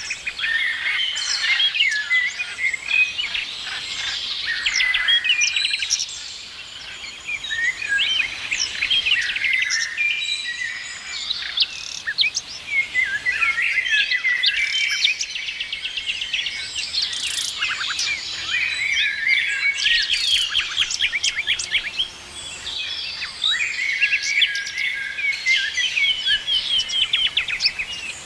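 Chorus of several songbirds singing and chirping over one another, with quick trills and rapid runs of repeated notes.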